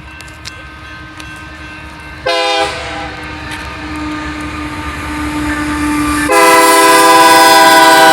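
Locomotive air horn sounding at a road crossing: one short blast, then a long, loud blast near the end, over the low rumble of the slow-moving train.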